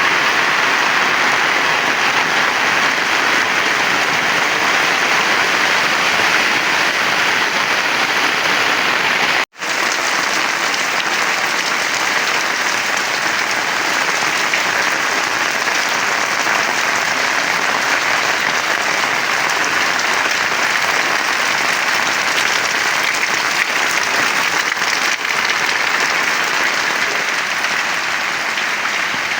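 Heavy rain pouring down steadily, a dense even hiss, cut off for an instant about nine and a half seconds in.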